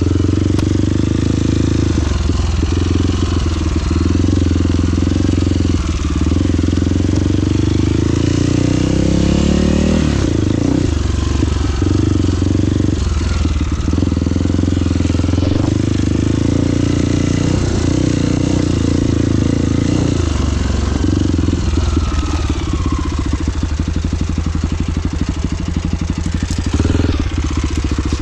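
Trail motorcycle engine running continuously while riding, its revs rising and falling with the throttle.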